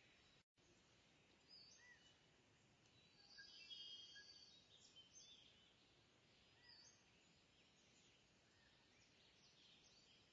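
Faint birdsong: scattered short chirps over a low background hiss, with a busier twittering phrase about three to four seconds in.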